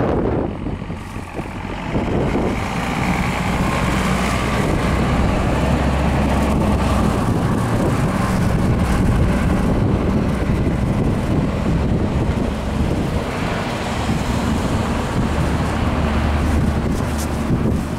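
A motor vehicle's engine running steadily close by, with wind noise around it.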